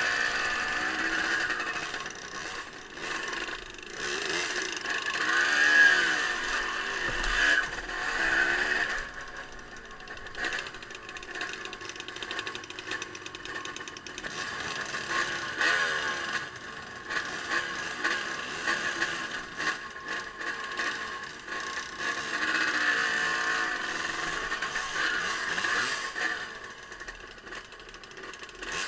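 Off-road vehicle engine revving, its pitch rising and falling repeatedly as the throttle is worked.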